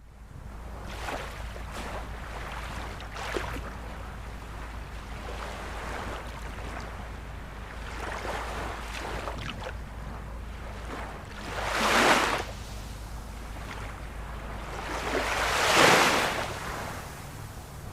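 Ocean waves washing ashore: a continuous surf wash over a low rumble, with two louder breakers swelling and fading about two-thirds of the way in and again near the end.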